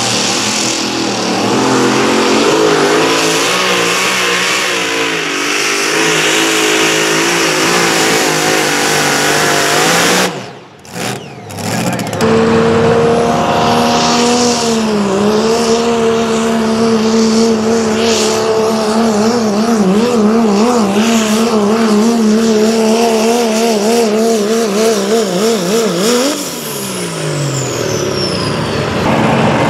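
Pulling engine run hard under load down the track, its pitch wavering. The sound cuts out briefly about a third of the way in, then the engine resumes at a high steady pitch. Near the end the throttle is lifted and the pitch falls, with a thin falling whine behind it.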